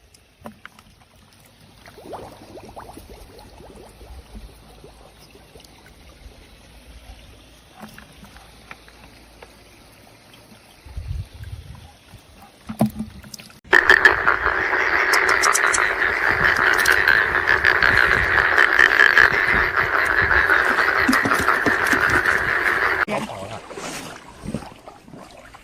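Rapid croaking calls that start suddenly about halfway in, run loud and unbroken for about nine seconds, then cut off sharply. Before them there is only a faint low rumble and a few soft knocks.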